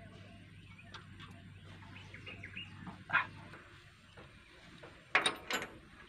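Birds chirping faintly over a low steady hum, with a short cluster of sharp clicks or clinks about five seconds in.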